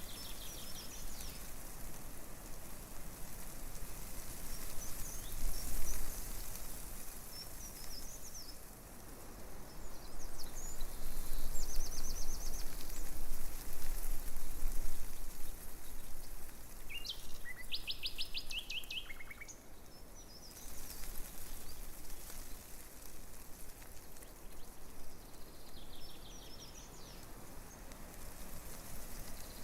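Breeze rustling tree leaves, a steady hiss that swells a few times, with small birds calling: short, high trills of rapid repeated notes heard several times.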